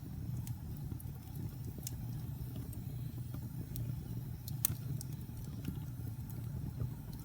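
Wood logs burning in a fireplace: a steady low rumble of the flames with scattered sharp crackles and pops, one louder pop a little past the middle.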